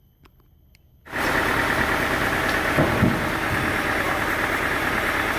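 A few faint clicks in near quiet, then about a second in loud sawmill machinery starts abruptly and runs on as a steady engine-like drone.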